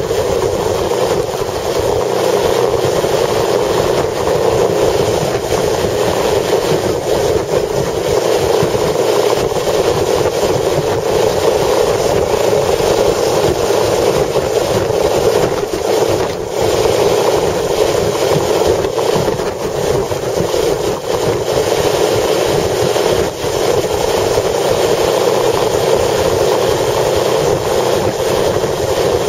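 Strong wind blowing as a loud, steady rushing noise, with a rumble that shifts low down and a couple of brief dips in loudness.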